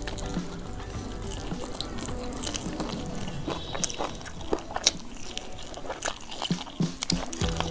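Close-miked chewing and lip-smacking of a mouthful of biryani eaten by hand, with many sharp wet mouth clicks, over quiet background music.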